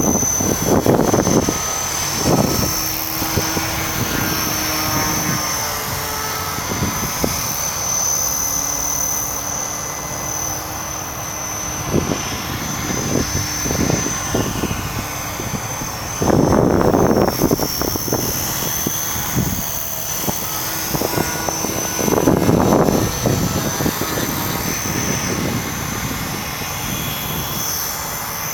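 O.S. 55AX two-stroke glow engine of a radio-controlled Pilatus PC-9 model running in flight, its drone shifting in pitch as the plane flies around. Several loud rushes of noise come over it, one near the start and two more past the middle.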